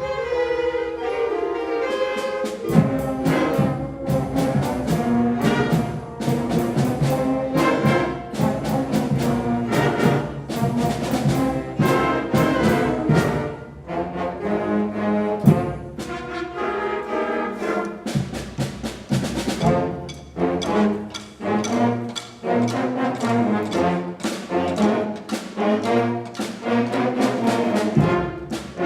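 A school concert band of 5th and 6th graders playing a brass-led piece, with many short sharp accented hits.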